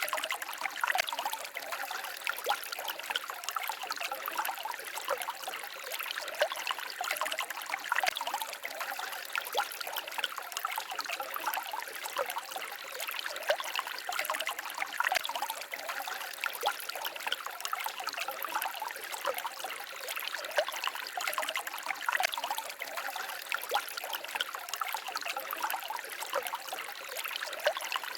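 A small forest stream trickling and babbling steadily over stones, a continuous splashy hiss full of small irregular plinks, with nothing low or rumbling in it.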